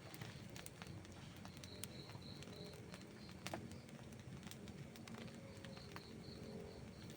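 Outdoor wood campfire crackling with scattered small snaps and one sharper pop about halfway through. A high, pulsing chirp of about six pulses a second sounds twice behind the fire.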